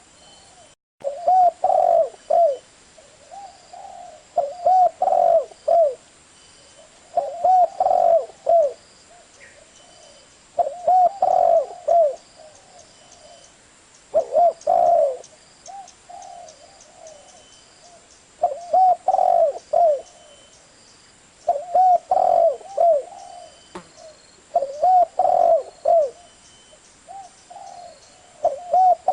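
Spotted dove cooing: a string of short phrases of several low coos each, repeated about every three seconds.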